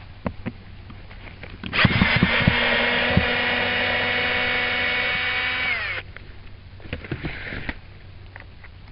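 Cordless power drill/driver running steadily for about four seconds, its motor whine dropping briefly in pitch as it is released. Clicks and knocks of handling come before and after it.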